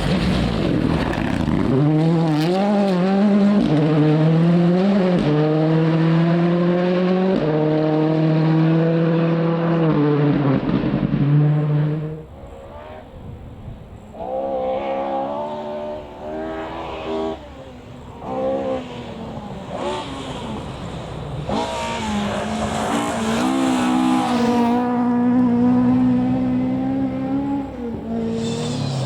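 Rally car engines at full throttle, revving up through quick gear changes. One car passes loud and close and drops away about twelve seconds in; more revving follows quieter, and then another car builds up loud near the end.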